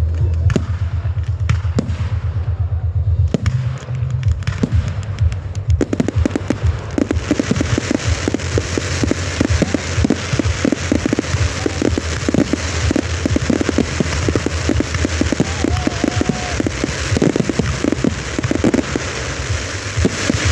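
Fireworks going off: quick pops and bangs for the first few seconds, then from about six seconds in a dense, continuous crackle of many small rapid reports.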